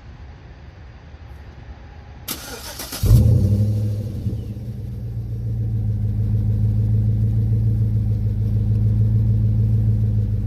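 2011 Chevy Avalanche's 5.3-litre V8 started through a Borla ProXS muffler with the resonator deleted and twin tips: about two seconds in the starter cranks briefly, the engine catches with a loud flare about three seconds in, then settles into a deep, steady idle.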